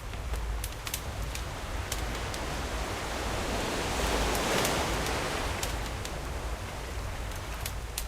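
A sea wave washing in, its rush swelling to a peak about halfway through and then easing off, with campfire wood crackling in sharp pops and snaps that are thickest near the start and end.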